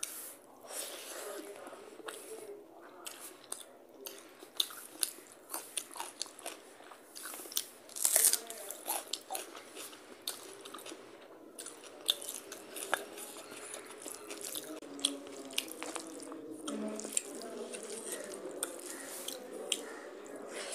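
Close-miked eating by hand: wet chewing, biting and mouth clicks as rice with dal and curry is eaten, along with fingers squishing and mixing rice on a steel plate. The loudest crunch comes about eight seconds in.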